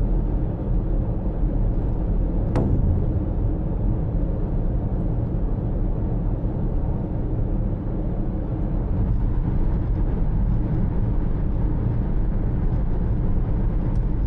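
Steady low rumble of a vehicle in motion, with a single short click about two and a half seconds in.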